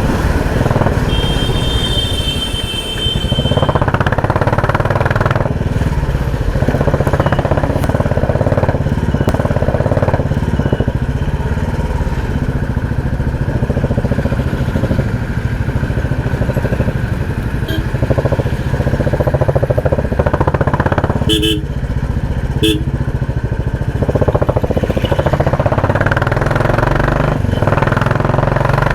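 Royal Enfield Classic 350 single-cylinder engine running under way through a loud exhaust, its steady low beat filling the whole stretch. Short horn beeps sound near the start and twice more about two-thirds of the way through.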